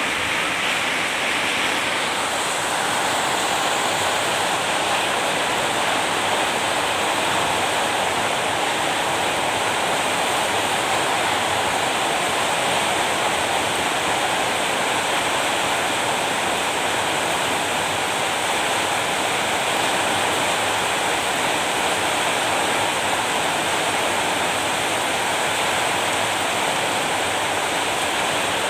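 Steady rain falling, an even, dense hiss that holds without a break.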